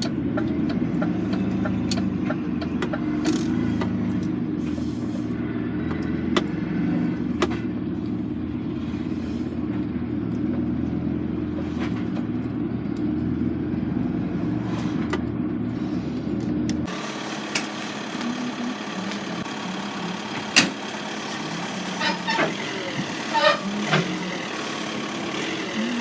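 Lorry's diesel engine running steadily. About 17 seconds in, the sound switches abruptly to a thinner background with scattered sharp knocks and short squeaks.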